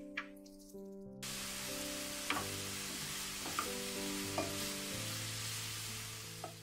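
Minced onion and shredded vegetables sizzling in oil in a frying pan; the steady sizzle starts abruptly about a second in. A wooden spatula clicks against the pan a few times as it stirs, with background music underneath.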